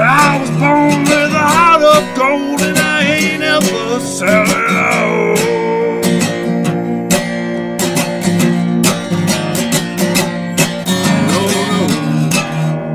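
Acoustic guitar strumming an instrumental break in a country-style song, with a wavering lead melody sliding in pitch over it for the first few seconds.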